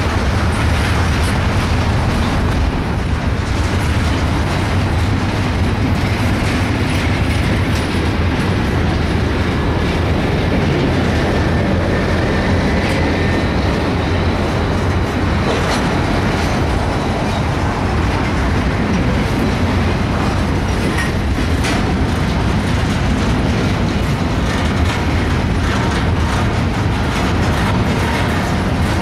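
Freight cars of a Norfolk Southern double-stack intermodal train rolling steadily past at close range: a continuous loud rumble with the wheels clicking over the rail joints.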